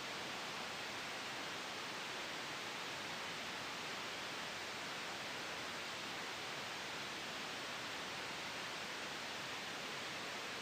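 Steady, even noise, strongest in the upper-middle pitches: soft synthetic white noise blended with a gentle wind ambience, unchanging throughout.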